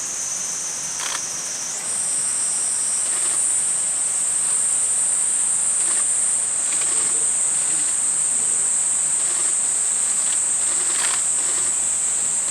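Steady, high-pitched insect drone that rises a little in pitch and gets louder about two seconds in, with a few faint clicks.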